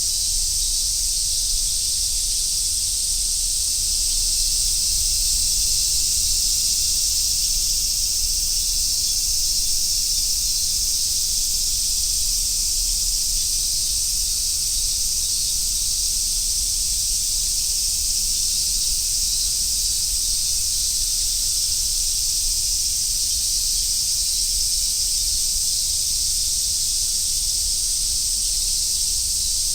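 A chorus of cicadas singing together in a steady, unbroken high-pitched sizzling drone that neither rises nor falls.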